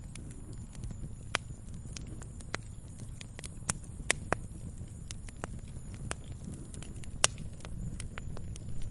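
Log fire crackling in a fireplace: irregular sharp pops and snaps over a low, steady rumble of flame. A few louder pops stand out, about a second and a half in, around four seconds and just past seven seconds.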